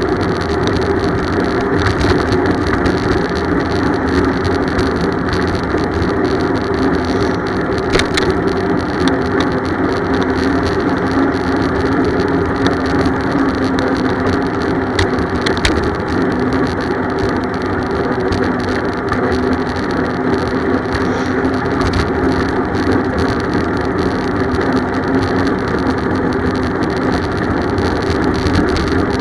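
Steady rumble of riding a bicycle: tyre and road noise, with a few brief sharp clicks about eight and fifteen seconds in.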